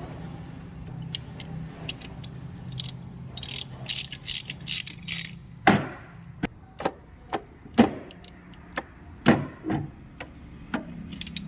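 Metal hand tools and engine parts clinking and knocking in a series of sharp, irregular strikes, several of them loud. A steady low hum runs underneath for about the first half.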